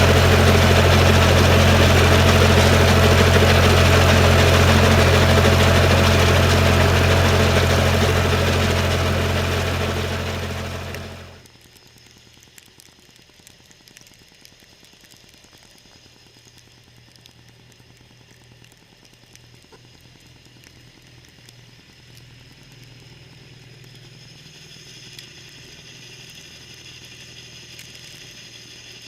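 John Deere 318 garden tractor's engine running steadily and loudly, then cutting off suddenly about eleven seconds in, leaving only a faint hiss.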